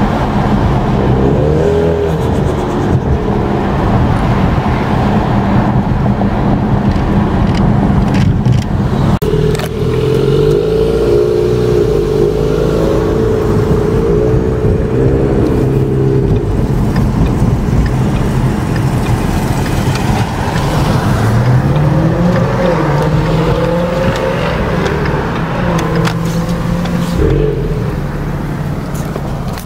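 Ford Mustang engine heard from inside the cabin while driving, its note holding steady pitches and stepping between them, with a rising rev as the car accelerates about two-thirds of the way in.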